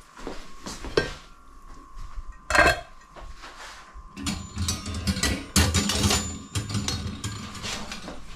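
Serving utensils knocking, scraping and clinking against a pot and plates while stew is dished up, with one sharp knock a couple of seconds in and busier clatter in the second half.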